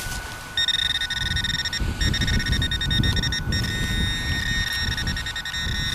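Metal-detecting pinpointer buzzing steadily as it is held against the target in the soil, starting about half a second in with two brief breaks. The continuous alert means metal is right at the probe tip. Low rustling of hands and soil underneath.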